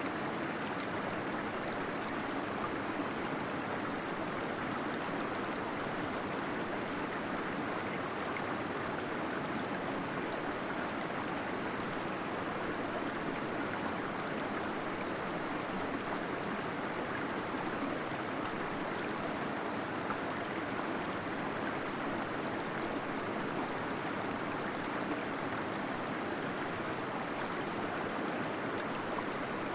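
Small waterfall flowing steadily inside a cave, an even, unbroken rush of gurgling water.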